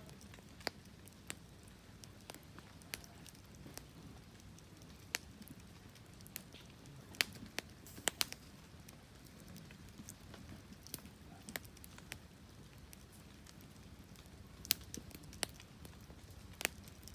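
Wood fire crackling: irregular sharp pops and snaps, a few louder ones near the middle and near the end, over a faint low rumble.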